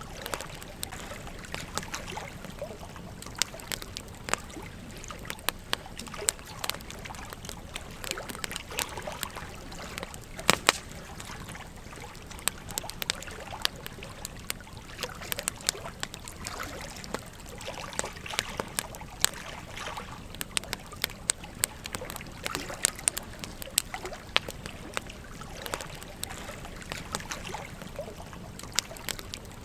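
Campfire crackling with frequent sharp pops, over the steady murmur of a gentle stream; one especially loud pop comes about a third of the way through.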